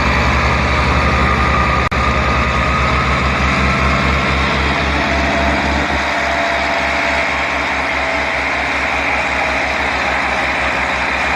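Loud tractor engine running at a steady speed with a fast, even low throb.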